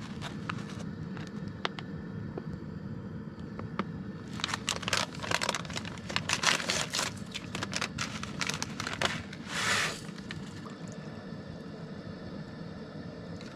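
Crinkling and rustling of a plastic food package being handled, a cluster of quick crackles and clicks in the middle and a short rustle near the end, over a steady background hiss.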